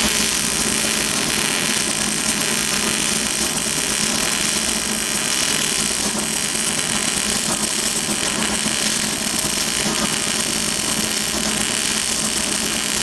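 Arc welding on a steel tractor rim: a steady, continuous crackling sizzle as the centre is welded back into the rim.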